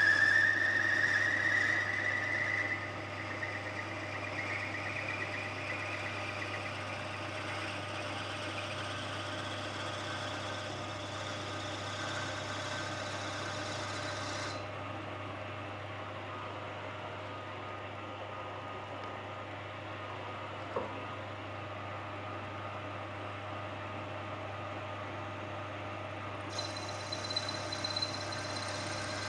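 Power drill running as a half-inch bit bores the brass joint out of a snooker cue. A whine rises in pitch over the first few seconds, then settles into a steady running hum, with a single small click near the middle.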